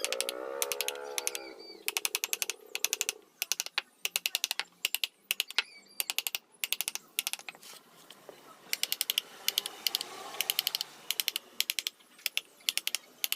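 Repeated bursts of rapid, sharp tapping or clicking, each burst a quick run of about a dozen ticks, with short gaps between bursts, from hand work on a wood carving.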